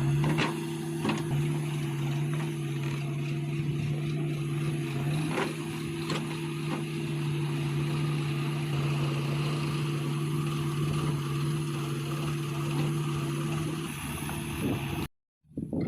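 Heavy diesel engine of earth-moving machinery running steadily, with a few sharp knocks and clanks early on and a slight change in engine pitch about five seconds in. The sound cuts out abruptly for a moment near the end.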